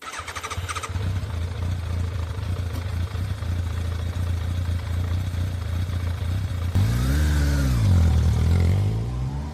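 Motorcycle engine running with a steady low hum. About seven seconds in it gets louder, and its pitch dips and then climbs again.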